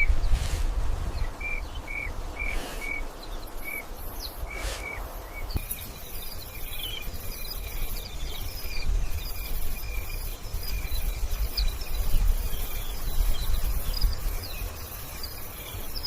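Nature ambience of chirping creatures: a run of short high chirps, about two a second, for the first five seconds, then many faint scattered chirps, over a steady low rumble.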